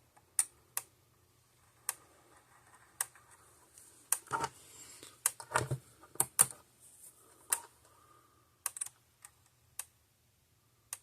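Red Snap'r fence energizer ticking as it fires its pulses, a sharp click about every 1.1 seconds. Between about four and six and a half seconds in, a few heavier knocks come in between the ticks, over a faint low hum.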